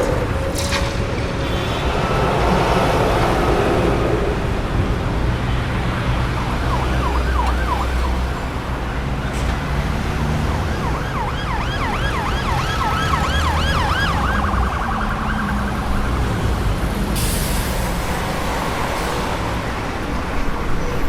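Steady road traffic rumble with an emergency-vehicle siren in yelp mode passing through: rapid rising-and-falling wails, about four a second, come in a short burst and then a longer one near the middle.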